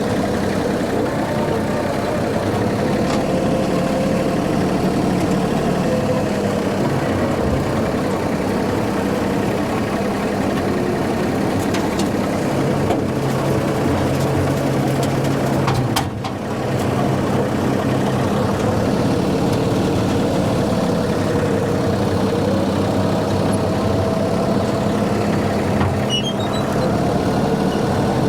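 Tractor engine running steadily while driving a brush hog rotary mower through weeds. About halfway through the sound dips briefly, with a sharp click.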